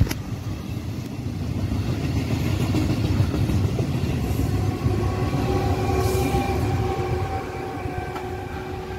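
Electric locomotive-hauled passenger train passing, a steady low rumble that swells and then eases off, with a steady higher tone joining about halfway through.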